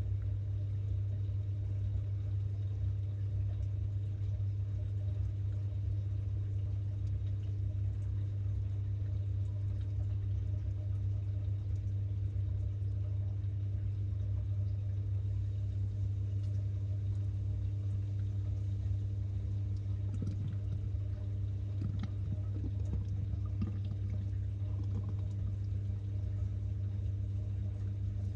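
Samsung 6.5kg top-load washing machine running with a steady low motor hum, heard from inside the drum, with a few faint splashes or knocks near the end.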